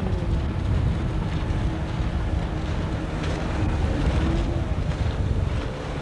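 Inflatable boat's motor running steadily on the water, with wind buffeting the microphone.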